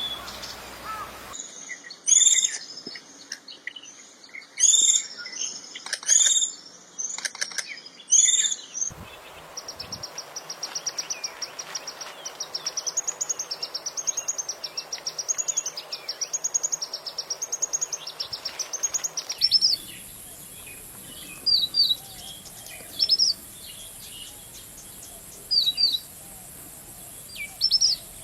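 Songbirds singing in three clips one after another. First comes a varied song of quick pitched notes, then a fast trill of rapidly repeated notes held for about ten seconds, then short sharp chirps every couple of seconds over a steady high hiss.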